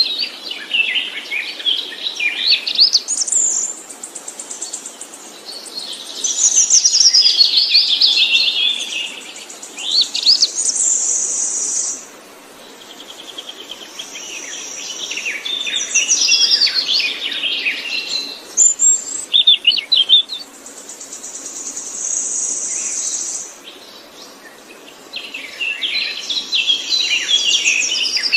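A songbird singing bouts of quick, varied chirps and whistles, several phrases a few seconds long with short pauses between them. Some stretches carry a steady, high buzzing trill.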